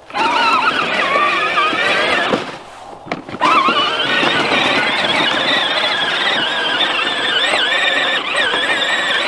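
Ride-on toy tractor's drive whining at a high, wavering pitch as it is driven. It cuts out for about a second midway, then picks up again with a rising whine.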